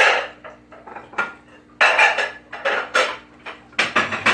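A utensil scraping and clinking against a bowl as slime and activator are mixed, in irregular strokes with short pauses between.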